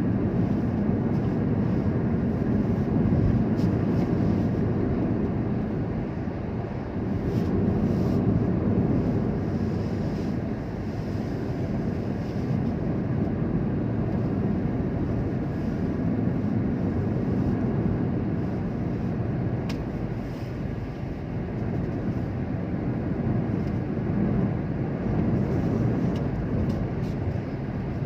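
Steady low rumble of a vehicle on the move, engine and road noise, swelling and easing slightly over time.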